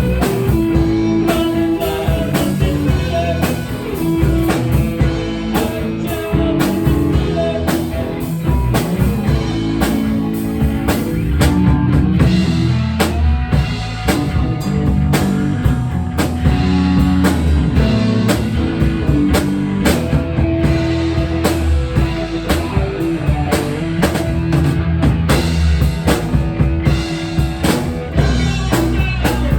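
Rock music played on drum kit and guitar, with steady driving drum hits throughout.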